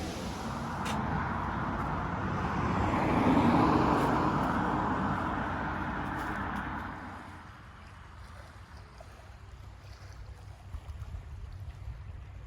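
A passing vehicle whose noise swells, peaks about three seconds in and fades away by about seven seconds, over a low rumble of wind on the microphone.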